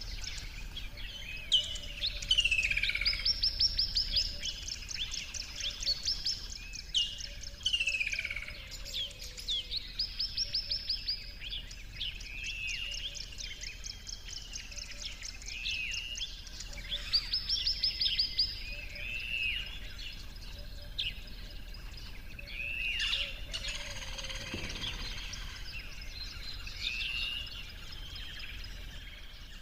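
Birds singing and calling: rapid trilled phrases and repeated downward-sweeping whistles, over a faint steady background hum.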